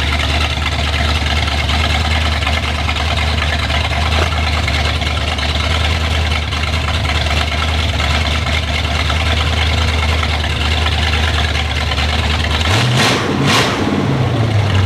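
Freshly rebuilt Chrysler 318 small-block V8 with a mild cam, running on stock exhaust manifolds with short open pipes. It idles steadily with a slight lope, then is revved up twice near the end and answers crisply.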